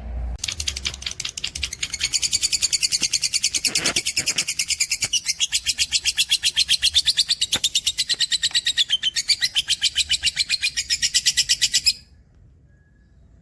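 Cage bird singing one long, rapid, evenly pulsed trill of high notes, lasting about eleven seconds and cutting off suddenly near the end.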